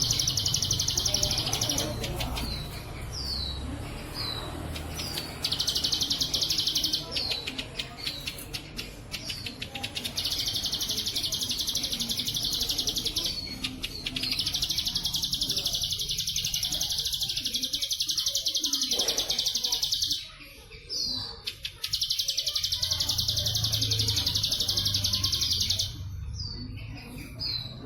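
Bar-winged prinia (ciblek sawah) song with its 'bren cililin' fill: long dry buzzing trills of several seconds each, cicada-like, alternating with short single chirps in the gaps.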